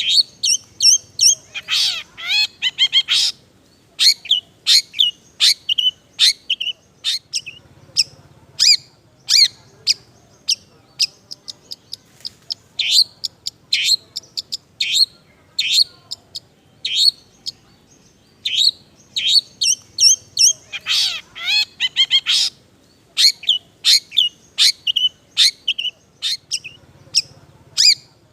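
Long-tailed shrike singing a rapid, varied song of short, sharp chirps. The song is laced with fill-in phrases copied from other birds. Two denser, louder flurries come about two seconds in and again near twenty-one seconds.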